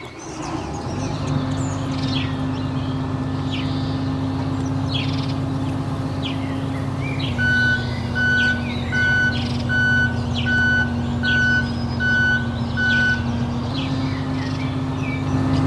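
A truck engine runs steadily while a reversing alarm beeps eight times, a little under a second apart, in the middle. Birds chirp throughout.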